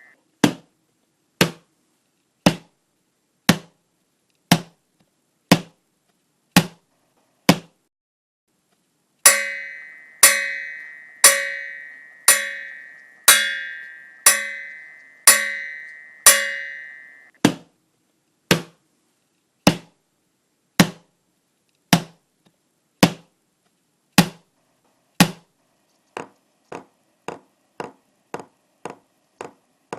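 Percussion strokes about once a second: short dry wood-block-like knocks, then a run of about eight ringing, bell-like strikes, then dry knocks again. Near the end they turn into quieter, quicker clicks, about two a second.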